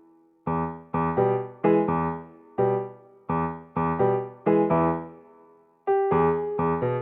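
Background music: electric piano chords, struck and left to decay, in a light bouncy rhythm.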